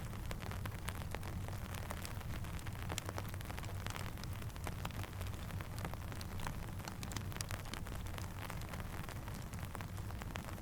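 Steady rain mixed with a crackling campfire: a dense, irregular scatter of sharp ticks and pops over a low, steady rumble.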